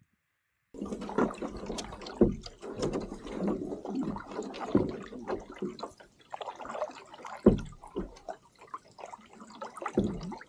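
Water splashing and lapping around a canoe, in irregular slaps and gurgles that start just under a second in.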